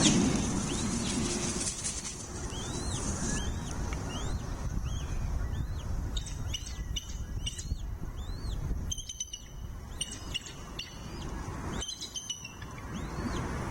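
Bald eagle calls: high, arched chirps repeating about every half second, broken several times by short bursts of rapid chattering notes. A steady low rumble runs underneath.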